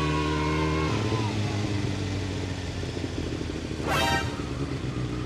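Kawasaki ZX6R inline-four engine running at a steady note, then dropping to a lower, uneven note about a second in. A brief horn toot about four seconds in.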